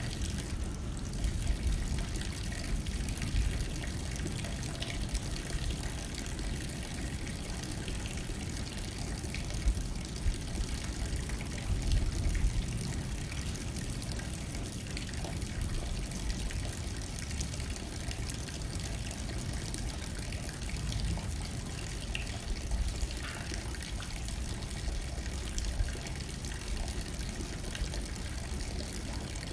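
Rain pattering on a window pane, with wind blowing. There is a steady low rumble under a fine, even spatter of drops, with a few slightly louder moments.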